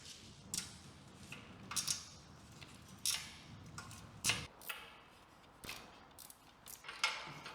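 Socket wrench clicking and clinking against metal while a 10 mm exhaust header nut is worked loose: irregular sharp metallic ticks, about a dozen over several seconds.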